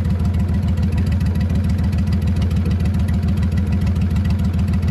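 Duck boat's outboard motor running steadily, a low, even pulsing engine note.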